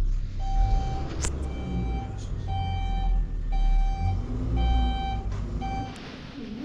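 A vehicle's reversing alarm beeping about once a second, six beeps in all, over a low engine rumble.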